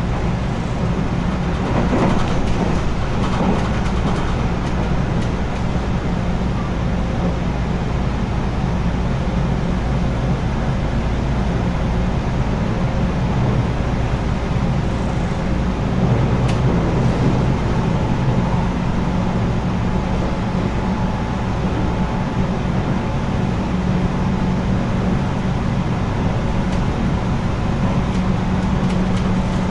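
JR West 221 series electric multiple unit running at speed, heard from inside the passenger cabin: a steady rumble of wheels on rail and running gear with a low steady hum. A few short knocks come about two and three seconds in and again past the middle, and a faint higher steady tone joins in the second half.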